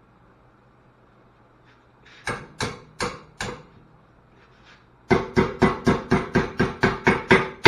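Hammer striking a metal bracket to reshape it. There are four spaced blows a couple of seconds in, then a quick, even run of about five blows a second, each with a short metallic ring.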